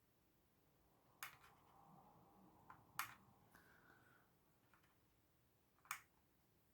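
Near silence with three faint, sharp clicks, about 1.2, 3 and 6 seconds in, and a little rustling: small plastic taps from handling a model locomotive.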